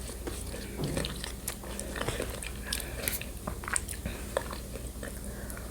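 Close-miked mouth sounds of eating yogurt with shredded coconut: chewing with scattered small wet clicks and light crunches.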